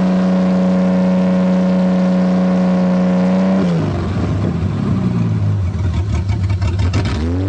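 1984 Toyota Cressida engine, first started after seven years sitting, running at high revs with the throttle stuck open. A little past halfway the revs fall and it runs rough and uneven, with a spell of rapid ticking, then picks up again near the end.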